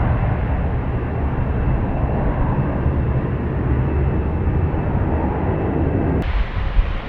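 Airliner engine noise: a loud, steady rumble. About six seconds in, the higher part cuts off abruptly, leaving a lower rumble.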